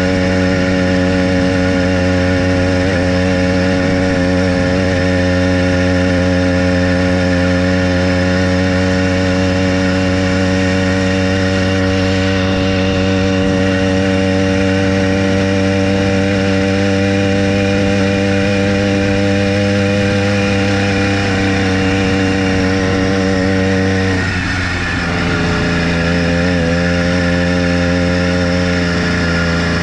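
Small single-cylinder engine of a motorized bicycle running under way at a steady cruising pitch. About three-quarters through it eases off briefly, then picks up again at a slightly lower pitch.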